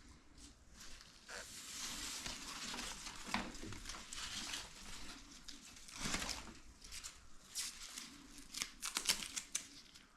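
Hands working materials at close range: rustling and crinkling, with scattered sharp clicks and a few short scraping bursts.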